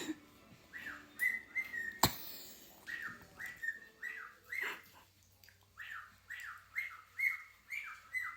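Pet bird calling over and over in short, downward-sliding chirps, about two a second, with one sharp click about two seconds in.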